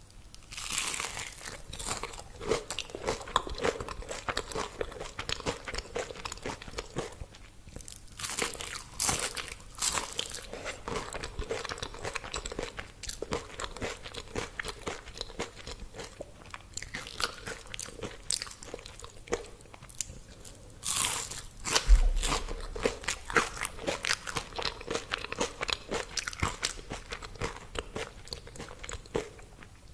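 Close-up eating of crispy fried food. Loud crunching bites come about a second in, around nine seconds and around twenty-one seconds, each followed by a run of crunchy chewing.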